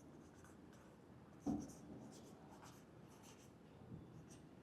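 Faint scratching of handwriting strokes in short runs, with a soft thump about a second and a half in.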